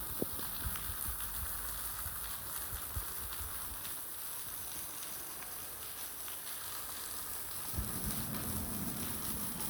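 Steady rain falling, with a few sharp drip ticks in the first seconds. A low rumble comes in near the end.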